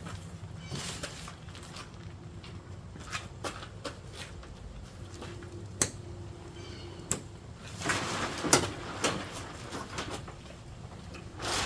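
Handling of truck bed tent parts: scattered sharp clicks and knocks with rustling, a louder cluster of knocks about eight seconds in and again near the end.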